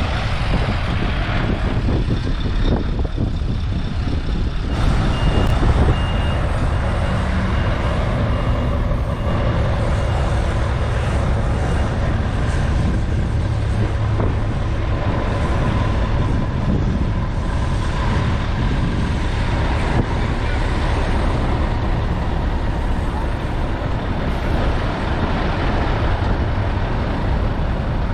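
Scania R770's V8 diesel engine running with a steady low rumble. A reversing alarm beeps repeatedly from about five seconds in, for about seven seconds.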